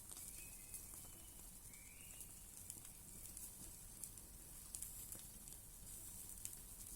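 Wood fire crackling faintly, with scattered small pops and a steady hiss. A brief faint high whistle sounds in the first two seconds.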